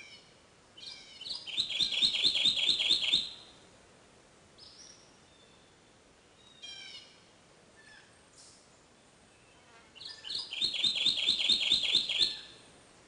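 Kentucky warbler singing its loud, rolling churry-churry song twice. Each song is a quick run of about nine repeated two-note phrases lasting some two and a half seconds, with faint calls of other birds in between.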